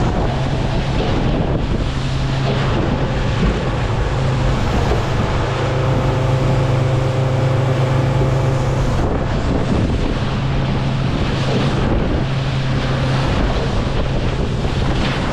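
Motorboat running at speed, its engine giving a steady drone under heavy wind buffeting on the microphone and the rush of the hull through the water.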